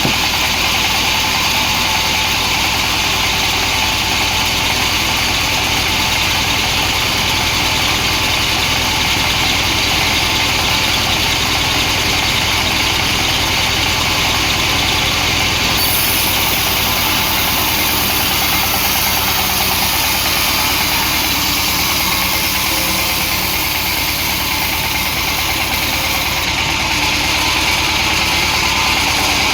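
Large chainsaw engine running steadily at an even speed.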